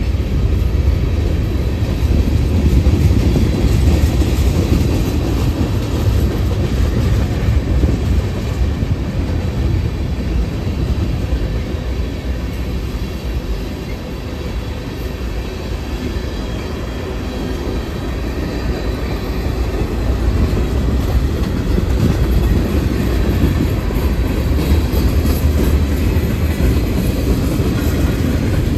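Freight train cars rolling past on the rails, a steady low rumble with wheel noise.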